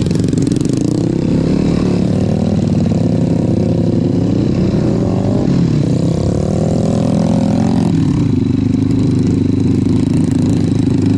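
Off-road trail motorcycle engine running and revving up and down. The engine note climbs steadily from about six seconds in, then falls away near the eight-second mark.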